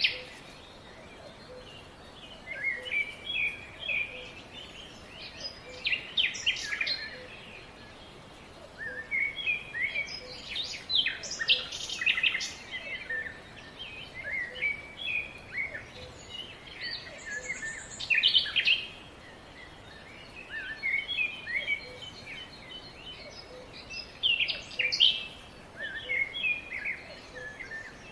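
Several small birds chirping and twittering in quick bouts of short, high notes, with lulls of a second or two between bouts, over a steady background hiss.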